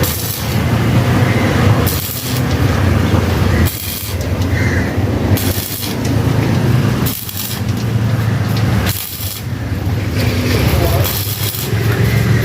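Engine running steadily in a workshop, its hum surging and dipping, with a sharp hissing burst about every two seconds.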